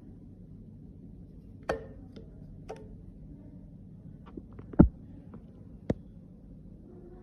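Makeup cases and tools being handled on a hard surface: a few scattered clicks and light knocks, the loudest a thud nearly five seconds in, over a steady low hum.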